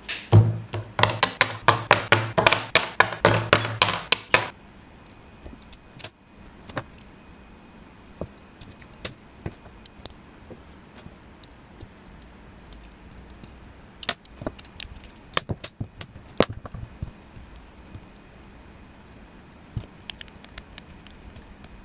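Small metal construction-kit pieces clinking and rattling: a dense, loud rattle of many clicks for about the first four and a half seconds, then scattered light clicks and taps of parts being handled and fitted.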